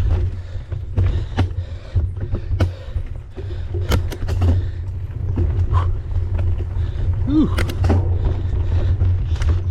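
Mountain bike riding over rough trail: a steady low rumble of wind and rolling noise, broken by frequent sharp knocks and rattles from the bike.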